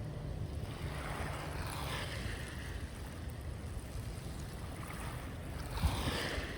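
Sea waves washing onto a shore, the hiss of the surf swelling twice, about a second in and again near the end, over a steady low rumble.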